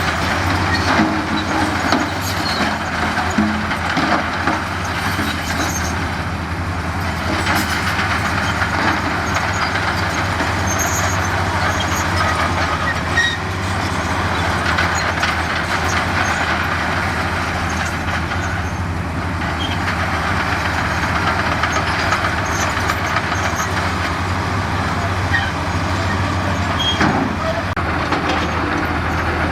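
Heavy diesel earthmoving machinery running steadily under work, with a constant low engine drone and occasional short metallic knocks and clanks.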